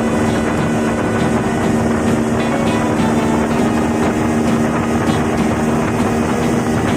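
A vehicle engine running steadily at cruising speed: a constant drone with a few fixed tones under a loud rushing noise.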